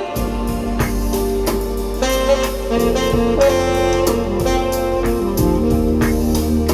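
Recorded music played over hi-fi loudspeakers: an instrumental passage with a saxophone lead over a steady drum beat and bass.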